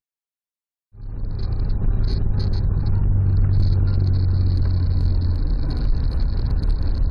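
A second of silence, then the steady low rumble of a car driving, engine and road noise, as a dashcam inside the car picks it up, with a thin steady high whine over it.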